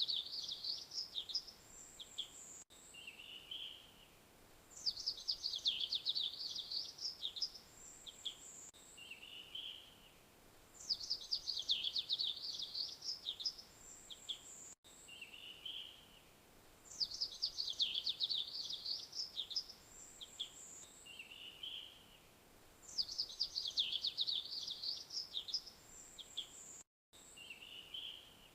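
A songbird repeats the same song phrase about every six seconds. Each phrase is a quick run of high, falling notes lasting about a second and a half, followed by one very high short note and then a lower one.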